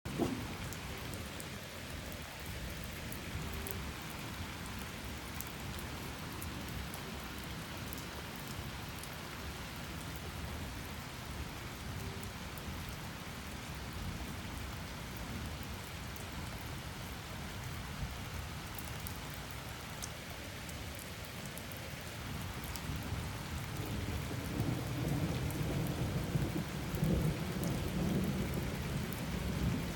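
Steady heavy rain falling and pattering on surfaces, with sharp drop hits scattered through it, during a thunderstorm; a low rumble of thunder swells in the last few seconds.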